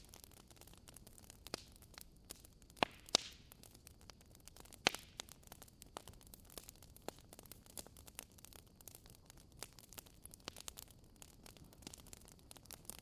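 Wood logs burning in a fireplace, crackling with irregular sharp pops over a faint hiss. The loudest pops come at about three seconds in and again near five seconds.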